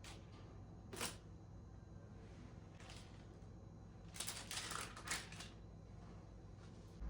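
Light clicks of small objects being handled: one sharp click about a second in, a fainter one later, then a short clattering run of clicks and rattles.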